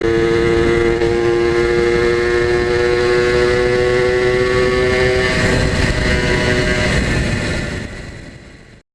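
Yamaha TZR250 1KT two-stroke parallel-twin engine, converted to air cooling, running at steady high revs with a level pitch; the sound fades away near the end and cuts off.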